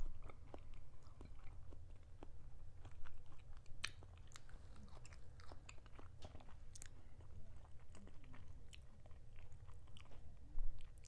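Close-up chewing and biting of food, with irregular small crunches and wet mouth clicks and one sharper click about four seconds in.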